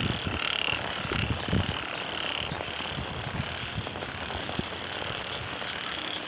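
A chorus of frogs calling in a steady, high pulsing drone over the wet fields, with irregular low thumps and rumble from wind on the microphone.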